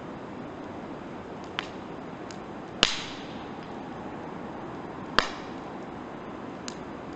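Firewood burning in a campfire, popping and crackling over a steady hiss: two loud sharp pops near the middle, with a few fainter cracks around them.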